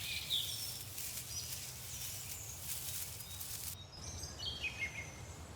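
Faint bird calls over a low, steady background rumble: a few high chirps near the start, and a short descending run of notes about four and a half seconds in.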